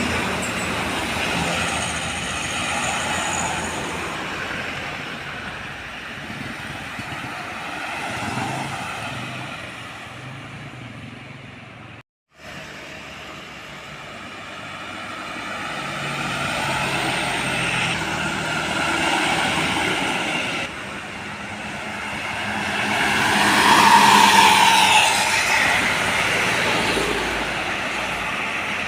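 Heavy trucks on a road, engines running over tyre noise that swells and fades as they pass. The sound cuts out completely for a moment about twelve seconds in.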